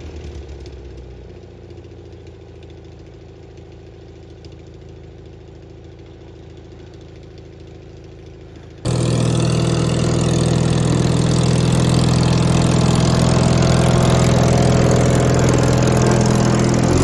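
Small engine idling steadily, at first fairly faint, then much louder and closer after a sudden jump about nine seconds in.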